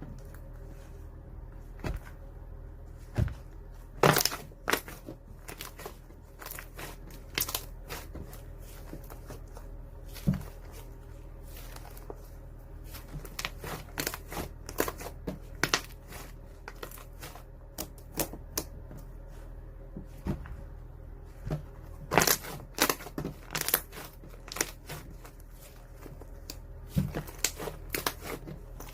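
Irregular clicks, taps and light crinkling from small objects being handled close to the microphone, over a steady low hum.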